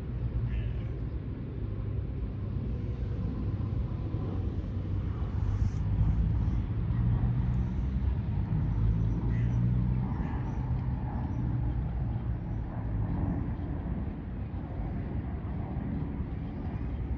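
Steady low rumble of road traffic, a little louder in the middle.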